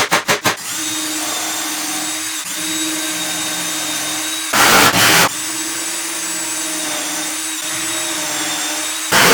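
A shop power tool's motor running steadily with a high whine. About halfway through, and again near the end, loud bursts of rushing noise cut in for under a second.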